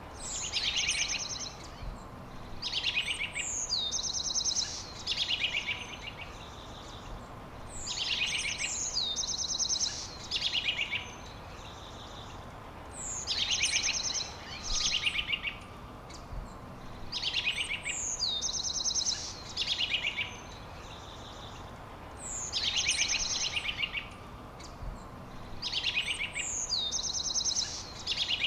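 A songbird singing the same phrase over and over, about every four to five seconds: a falling whistle followed by rapid buzzy trills. A steady background hiss runs underneath.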